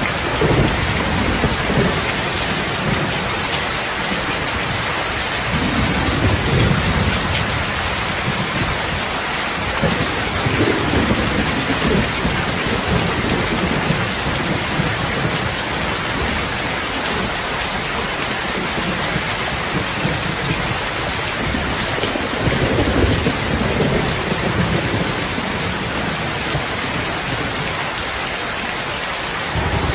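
Heavy rain falling steadily, with low thunder rumbling and swelling up several times.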